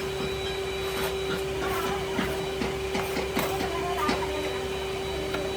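Factory machinery running with a steady hum, with irregular metallic clicks and knocks on top.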